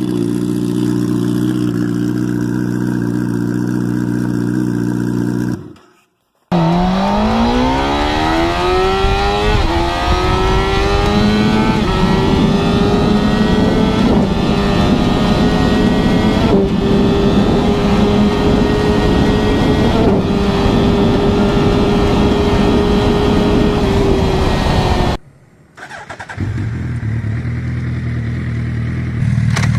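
Motorcycle engines, in three clips cut together. First an engine runs at steady low revs. After a cut, a motorcycle accelerates hard, its pitch rising smoothly before levelling off into a long steady high-speed run. After another cut, an engine runs steady and low again.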